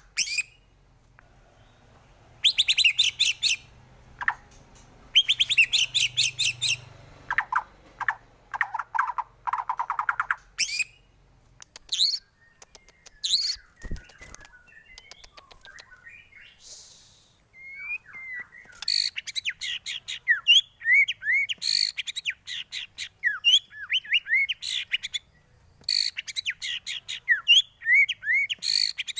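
White-rumped shama (murai batu) song: varied phrases of fast high trills and lower whistled notes, broken by a pause halfway with a single dull thump, then a long run of quick down-slurred chirps near the end.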